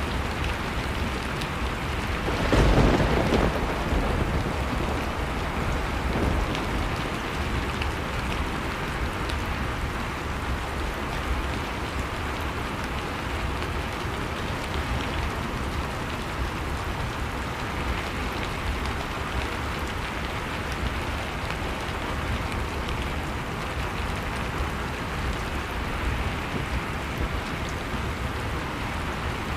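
Blizzard-and-fireplace ambience: a steady rushing storm noise with small crackles from the fire scattered through it. A louder rumbling surge of the storm comes about two and a half seconds in and lasts about a second.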